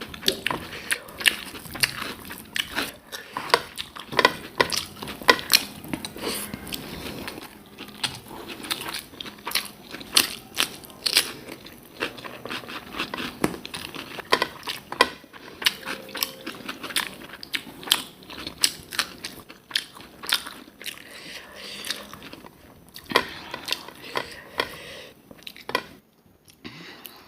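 Close-miked eating: food being bitten and chewed with many irregular crisp crunches and crackles, thinning out near the end.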